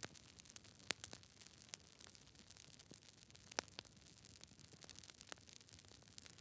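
Campfire crackling: irregular small pops and snaps over a soft hiss, with two sharper pops about a second in and a little past halfway.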